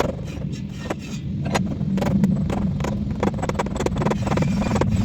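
A steady low engine-like rumble, with irregular sharp clicks and knocks of hand work on top of it.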